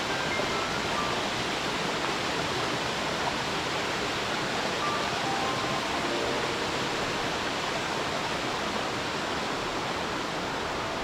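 Waterfall: water falling steadily in a dense, even rush with no let-up.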